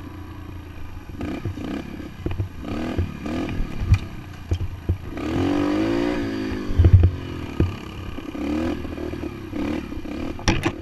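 Dirt bike engine revving up and down as it rides over rough ground, with scattered knocks and rattles from the bike.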